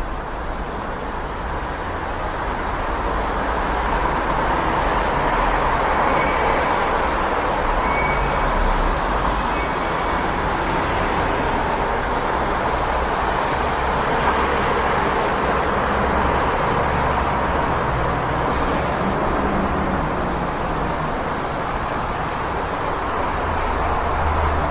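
Steady city street traffic: a continuous wash of passing vehicles with a low engine rumble, swelling slightly a few seconds in, and a few faint short high-pitched tones through it.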